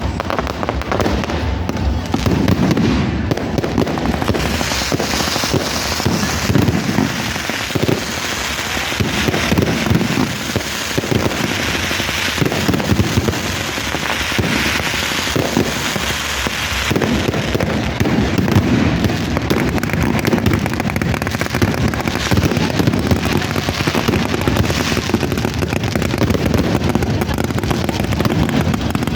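A continuous barrage of fireworks and firecrackers: dense, rapid popping and crackling with no break.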